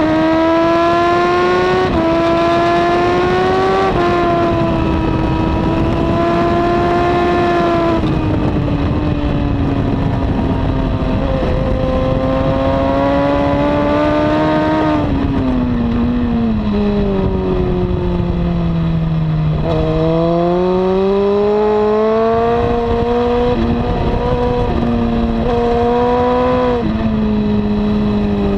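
A 2002 Honda CBR954RR's inline-four engine with a slip-on exhaust, heard from on the bike at track speed over heavy wind noise. It accelerates through two upshifts, then winds down for about five seconds as the bike slows for a corner, then pulls hard again through two more upshifts near the end.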